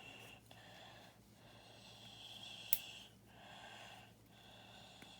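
Faint breathing close to the microphone, in soft swells about a second apart, with one sharp plastic click about two and a half seconds in as a half Technic pin is pressed into a LEGO-style Technic brick.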